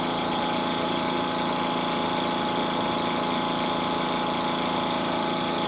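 Tuxing TUXD11 high-pressure air compressor running steadily as it fills an air tank with the fill valve wide open. It makes a constant even hum with several steady tones.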